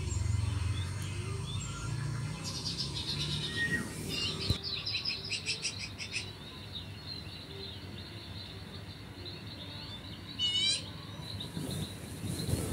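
Small birds chirping in the background: a run of rapid, high repeated notes a couple of seconds in, and a short rippling call about ten seconds in and again near the end.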